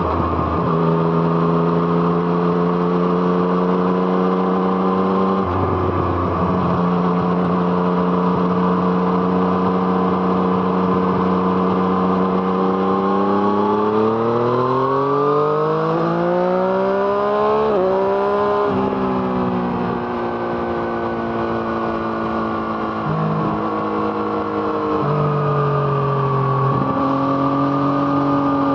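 Yamaha MT-09's three-cylinder engine through an Arrow Thunder aftermarket exhaust, heard while riding. It holds a steady note, broken twice by quick gear changes, then winds up in a long rising pull about midway. It drops sharply after the pull and runs at lower revs, with a few stepped gear changes near the end.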